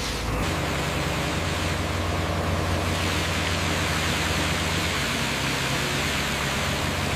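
A steady low mechanical drone under an even broad hiss, with no clear events.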